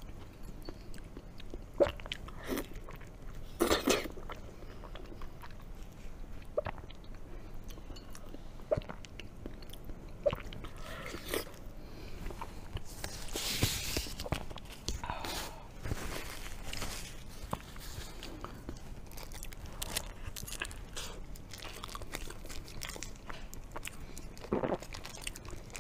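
Close-miked chewing of raw Atlantic bluefin tuna belly: soft, wet mouth sounds with scattered sharp clicks, and a brief rustle about halfway through.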